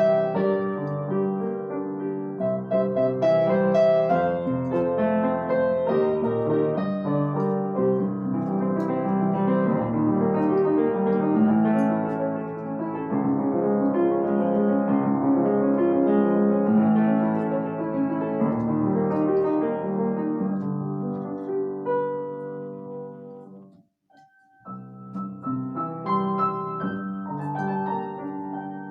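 Solo piano playing, notes sounding continuously, with a brief pause of about a second roughly three-quarters of the way through before the playing resumes.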